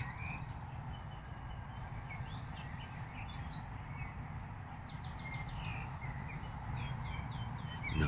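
Birds chirping in the background over a steady low rumble, with a quick run of short high notes about five seconds in followed by several short falling chirps.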